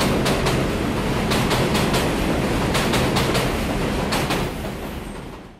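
Elevated New York subway train passing overhead: a loud, steady rumble with a rapid, irregular clatter of wheels over the track, fading out near the end.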